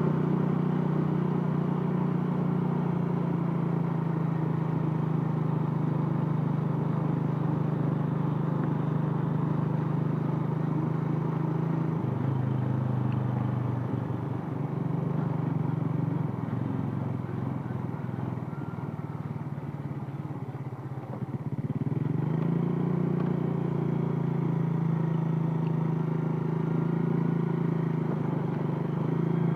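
Yamaha Vega ZR underbone motorcycle's single-cylinder four-stroke engine running steadily while ridden. About twelve seconds in the engine note drops and eases off for several seconds, then picks back up to its earlier steady revs.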